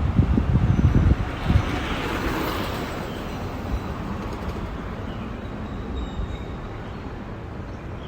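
Outdoor ambience from a moving bicycle ride. Wind buffets the microphone in low gusts for the first second or so, a broad hiss swells and fades about two seconds in, and faint bird chirps sound here and there.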